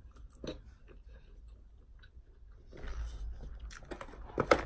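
A person chewing a waffle fry: scattered soft mouth clicks, with a louder click near the end.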